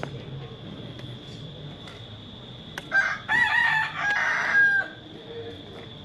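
A rooster crowing once, a single call of about two seconds starting about three seconds in.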